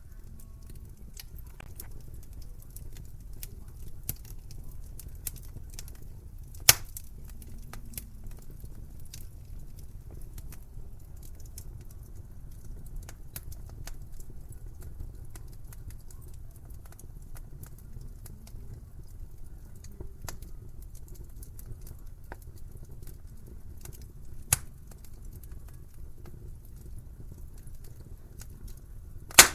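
Wood fire crackling in a fireplace: a steady low rumble of flames with scattered small crackles and three loud sharp pops, about 7 s in, about 24 s in and at the very end.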